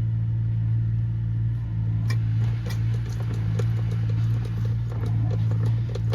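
A hand gear-oil pump being worked into a transfer case fill hole, giving small rapid clicks and squeaks that grow more regular in the second half, over a steady low machine hum.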